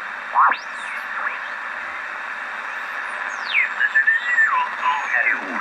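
Band noise hissing from a home-built regenerative receiver with 6SL7 and 6V6 valves on the 80 m amateur band, with whistling tones that sweep steeply up and down in pitch several times.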